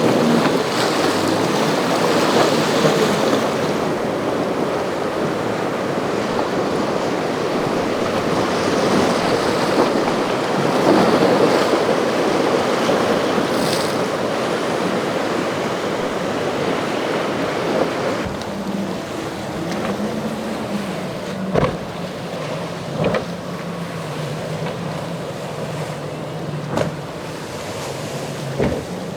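Waves and surf churning, with wind buffeting the microphone. From about two-thirds of the way in, a boat engine's low steady hum comes through, along with a few sharp knocks.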